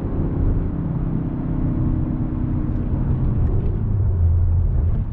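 Volkswagen Golf R's 2.0-litre turbocharged four-cylinder engine and exhaust running under way in a manual-gearbox car, the engine note dropping lower about three to four seconds in as the revs fall, over steady road noise.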